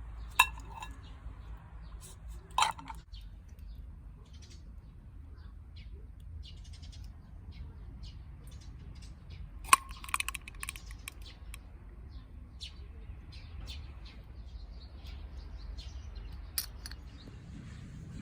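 Wood campfire crackling in the rain: scattered small ticks and four loud, sharp pops over a steady low rumble, with a burst of quicker crackles after the third pop.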